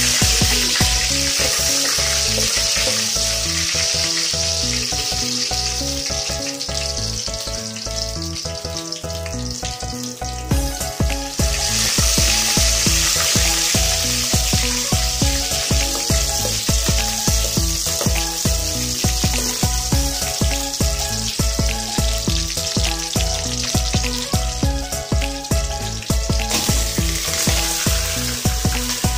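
Garlic, then onion, then chicken sizzling as they are sautéed in a stainless steel pot and stirred with a ladle. The sizzle grows louder about twelve seconds in and again near the end as new ingredients go in. Background music with a steady beat plays over it.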